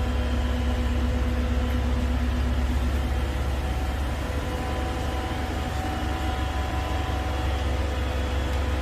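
Steady low rumble of a train with a constant electrical hum, holding an even pitch throughout.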